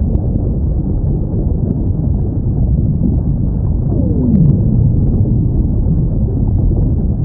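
Whale call: one falling moan about four seconds in, sliding from a mid pitch down low, over a steady low rumble.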